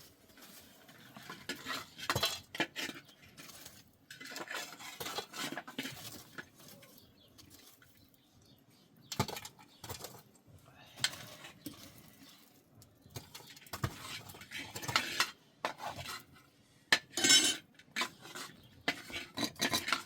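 Irregular clinking and clattering of hard objects, like dishes and utensils being handled, coming in scattered bunches and loudest near the end.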